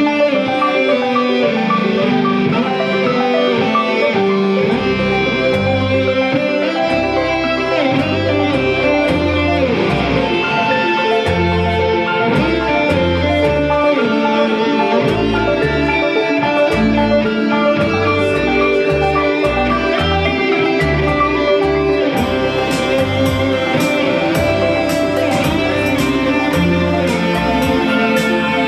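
Live band playing an instrumental passage led by guitar. A low bass line comes in a few seconds in, and quick hi-hat ticks join near the end.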